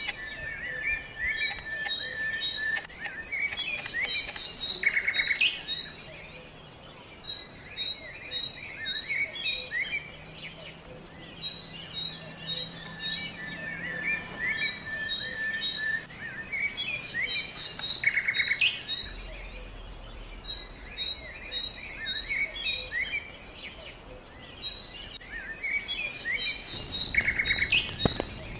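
Songbirds chirping and trilling in many short, high calls, the same run of calls coming back about every twelve seconds.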